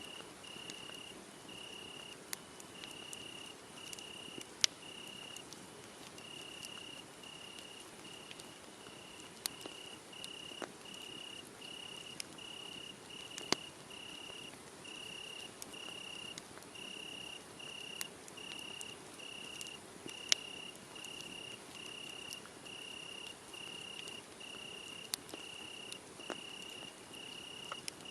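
Crickets chirping in an unbroken run of short, evenly spaced high pulses, over a wood fire crackling softly with a few sharp pops, which are the loudest sounds.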